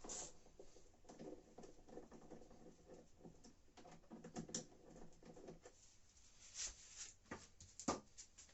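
Faint, irregular metallic clicks and rattles of a long socket wrench being fitted and turned on the nut of a washing machine's heating element, with a few sharper clicks near the end.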